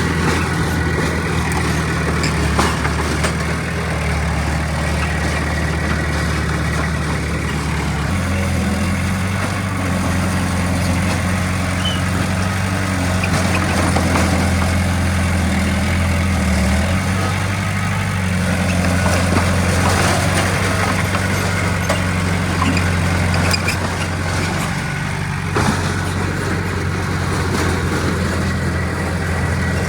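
Heavy diesel engine of earth-moving machinery running steadily, its engine note stepping to a different pitch about eight seconds in and again shortly after halfway, with a few knocks.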